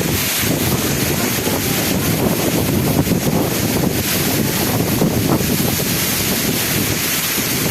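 Wind buffeting the microphone during a rainstorm: a steady, loud rushing noise.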